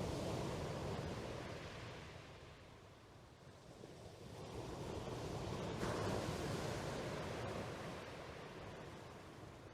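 Sea waves washing in: a rushing noise that swells and ebbs slowly, cresting near the start and again about six seconds in.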